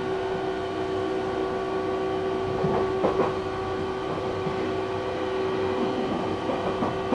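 Inside a moving Joban Line E531-series commuter train: steady running noise with a constant hum, and a short rail clatter about three seconds in.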